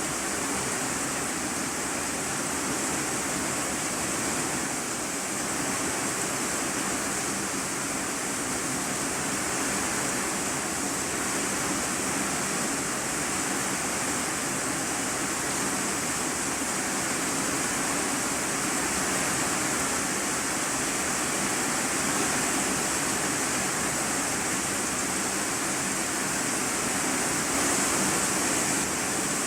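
Steady heavy rain drumming on a corrugated iron sheet roof, heard from inside the room beneath it as a dense, even hiss with no single drops standing out.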